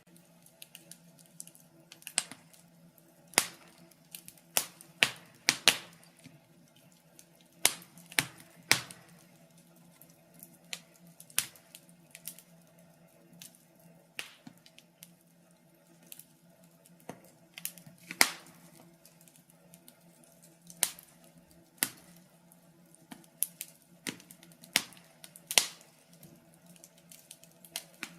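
Wood fire burning in a fireplace, crackling with sharp, irregular pops of varying loudness over a faint, steady low hum.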